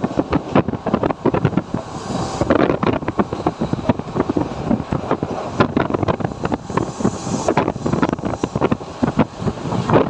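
Mumbai suburban electric local train in motion: a dense, constant clatter of wheels and rattling carriage, with wind noise.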